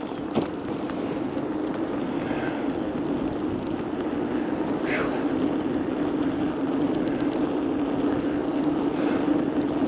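Steady low hum with rushing wind and road noise from a bicycle being ridden, growing slightly louder, with a couple of light clicks.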